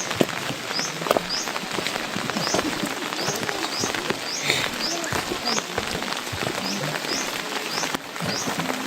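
Heavy rain falling: a dense steady patter with many close drips. A short high chirp repeats about twice a second throughout.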